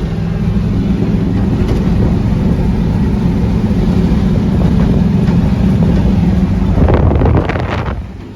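Vintage International grain truck's engine running steadily through its custom exhaust stack as the truck drives. About seven seconds in the sound rises briefly, then drops away near the end.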